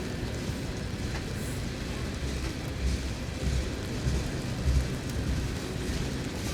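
Train rolling past at close range: a steady low rumble of wheels on rail with irregular heavier thumps.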